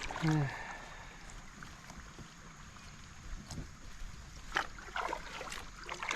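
Kayak paddle strokes splashing in a flowing river, with a few sharp splashes and knocks in the second half, over the steady wash of the current.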